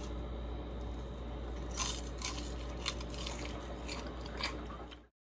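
Someone chewing crispy battered fried chicken wings, with several sharp crunches over a steady low hum. The sound cuts off suddenly near the end.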